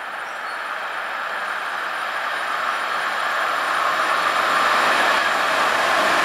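Electric locomotive hauling a container freight train on the approach, its running and wheel-on-rail noise growing steadily louder as it nears.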